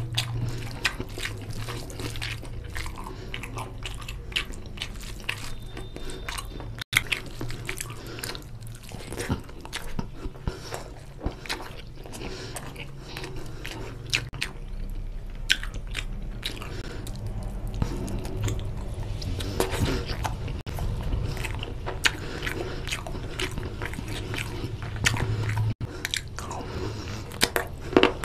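Close-miked chewing and biting of chicken drumstick curry and rice eaten by hand: many short, wet, sharp clicks from mouth and fingers over a steady low hum.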